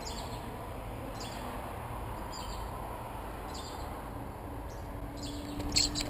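Birds chirping: faint, short, high chirps every second or so, turning into a quick run of loud chirps near the end, over steady outdoor background noise.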